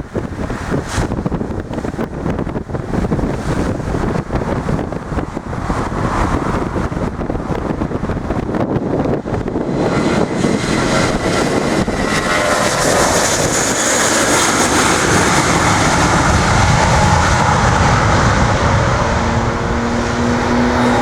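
Airbus A320-232's IAE V2500 turbofan engines rising to takeoff thrust: a loud low rumble, joined about halfway through by a rising whine and hiss that build steadily louder.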